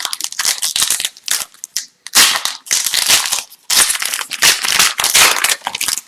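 Foil wrapper of an Upper Deck hockey card pack crinkling and tearing as it is opened, with cards rustling and clicking as they are handled, in dense bursts with short pauses.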